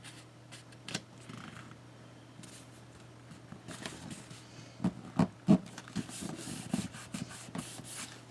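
Paper and card being handled and rubbed down by hand, with scattered light clicks and three louder knocks a little over halfway.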